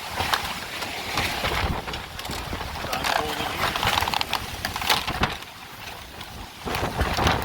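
Hurricane-force wind gusting and buffeting the microphone, rising and falling in surges, with scattered clattering knocks and rattles.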